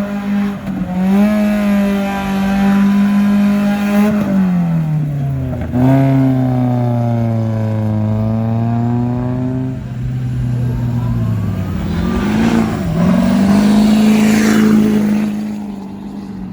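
Car engine running loud and steady, its pitch dropping about four seconds in, holding lower, then climbing back up near the end as the revs change.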